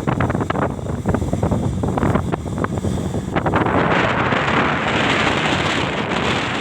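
Kubota DC-70 combine harvester running as it cuts rice, a steady mechanical rumble mixed with wind buffeting the microphone. The rushing noise grows fuller about halfway through.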